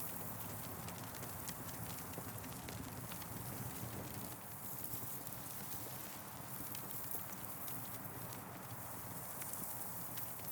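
Campfire crackling: irregular sharp pops and snaps from the burning wood over a steady hiss.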